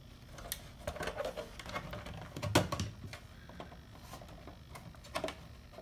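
Handling noise: scattered light clicks and taps of objects being moved on a workbench, with the loudest knock about halfway through.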